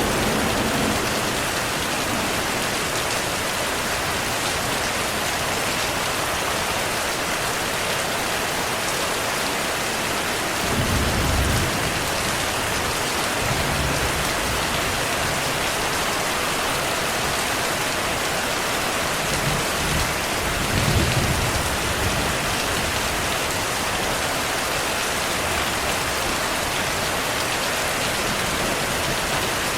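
Steady rainfall, an even hiss of rain on surfaces. Low thunder rumbles twice, about eleven seconds in and again around twenty seconds.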